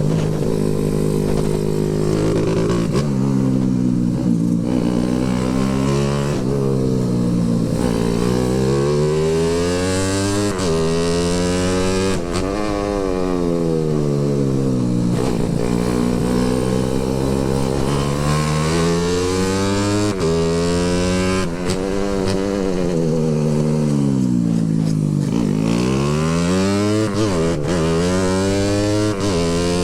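Motorcycle engine running under way, its pitch climbing and dropping again and again as the throttle is opened and closed.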